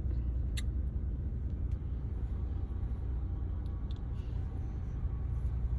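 Steady low rumble inside a stationary car's cabin with the engine running, and a single faint click about half a second in.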